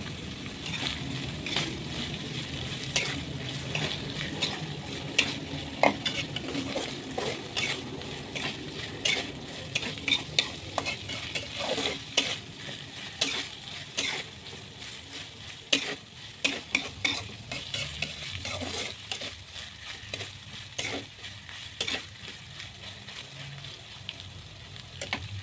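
Anchovies, sliced shallots and garlic sizzling gently in oil in an aluminium wok over a low flame. A metal spatula scrapes and clinks against the pan at irregular intervals as they are stirred and turned.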